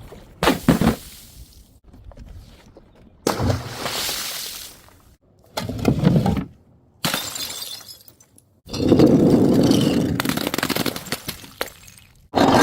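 Glass bottles smashing and shattering, about six separate breaks one after another, each starting abruptly; the longest and loudest, a couple of seconds of breaking glass, comes past the middle.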